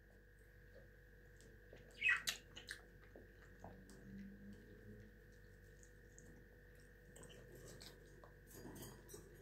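A person chewing mandarin segments, with faint wet mouth and chewing sounds, and one short, louder sound about two seconds in.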